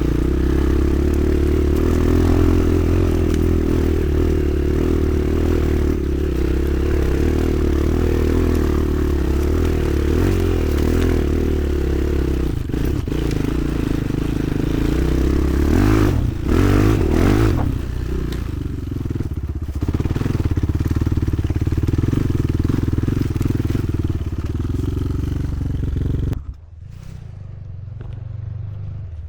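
Motoland XR 300 Lite enduro motorcycle engine running under way with a steady note, briefly revving up and back down about midway. Near the end the sound drops away sharply to a quieter, lower steady running note.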